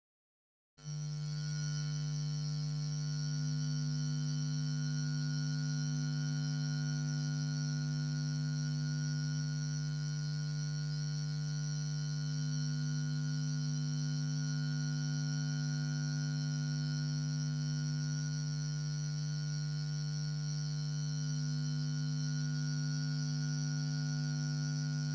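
Steady electrical hum with a buzzy stack of overtones, strongest low down, starting after a moment of dead silence and holding unchanged throughout.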